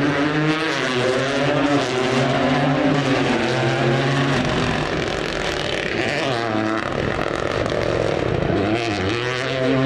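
Rally car engine under hard acceleration, its pitch climbing and dropping several times as it changes gear.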